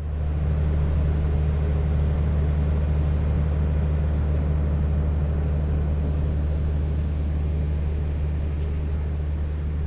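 A steady low mechanical drone that starts abruptly and holds evenly throughout.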